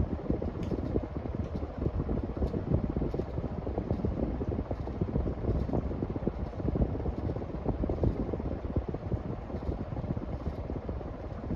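Hampton Bay Gazebo Plus ceiling fan running steadily, the air off its blades buffeting the microphone as a low, fluttering wind noise.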